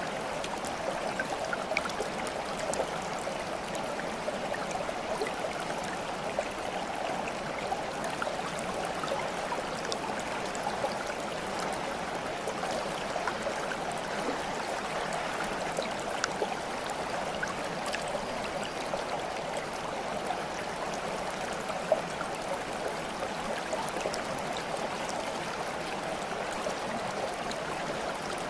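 Water flowing and babbling steadily, with small drips and splashes scattered through it and one sharper splash about 22 seconds in.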